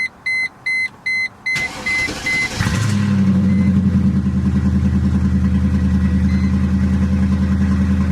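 Mercedes-Benz E55 AMG's 5.4-litre V8 cold-started on new spark plugs fitted to cure a misfire: the car's chime beeps about four times a second, the starter cranks for about a second, and the engine catches and settles into a steady idle.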